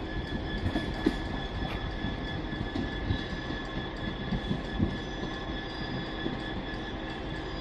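Train running at a station platform: a steady low rumble with a thin, steady high whine over it and scattered light clicks.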